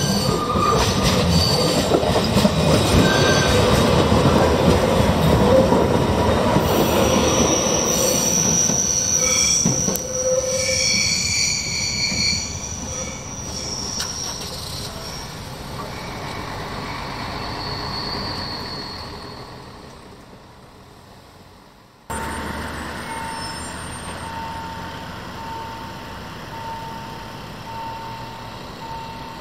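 Electric regional train running past, its wheels squealing on the rails with high piercing tones, then the noise fades away. After a cut, a level-crossing warning signal sounds steadily, a repeated single-pitched beep about once or twice a second.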